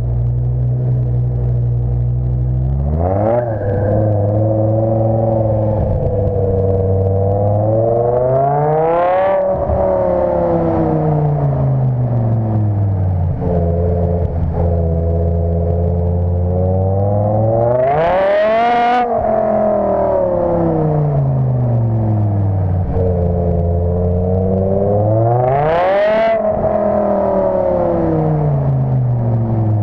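BMW M5 E60's 5.0-litre V10 through a custom exhaust, idling and blipped four times. The revs rise and fall back to idle, and the last two revs climb highest.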